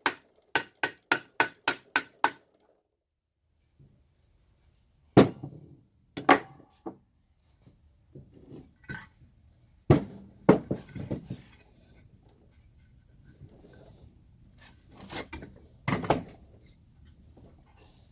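Hammer blows on the bent metal chassis of a Leslie 122 amplifier as it is straightened: a quick run of about seven even blows in the first two seconds, then scattered knocks and clanks of metal being handled and tapped.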